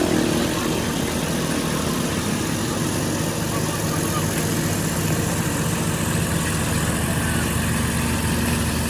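Engine idling steadily, an even low hum.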